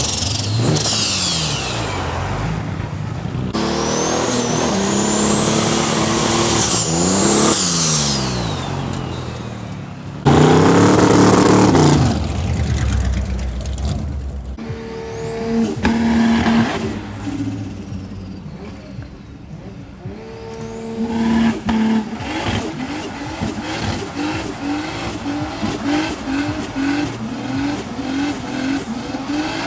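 Car engines in several short clips: cars revving and accelerating past, their engine pitch rising and falling. Near the end one engine runs with a steady pulsing beat.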